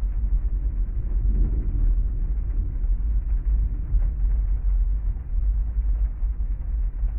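Heavy rainstorm heard from inside a parked car: a steady, dense wash of rain over a deep low rumble, with a slight swell about a second and a half in.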